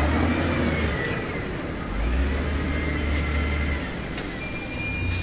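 Diesel engine of heavy earthmoving equipment working, its low rumble swelling under load twice, with a faint high whine rising and falling above it.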